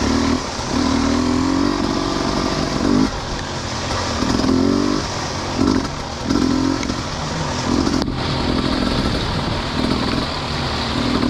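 Kids' dirt bike engine revving in short bursts of throttle, rising and falling in pitch about half a dozen times over a steady hiss.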